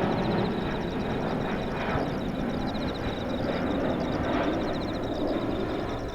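Boeing 767 jet airliner passing overhead, its engine rumble slowly fading. Insects chirp in rapid, steady pulses underneath.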